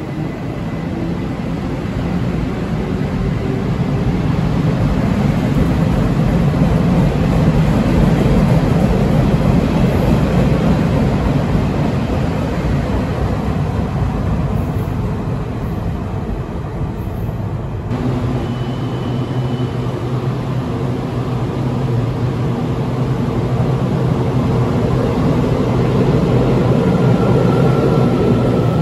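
A Chu-Kuang express hauled by an electric locomotive pulling out of an underground station: the passenger coaches roll past on the rails with a steady low rumble that swells and then eases as the train leaves. About two-thirds of the way through, the sound changes abruptly to an EMU800 electric multiple unit rolling in to the platform, its rumble building again.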